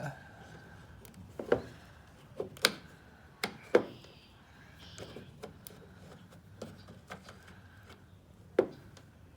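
Handling noise as a battery tester and its leads are set up on an electric scooter: about half a dozen sharp clicks and knocks, irregularly spaced and mostly in the first four seconds, over a faint steady hum.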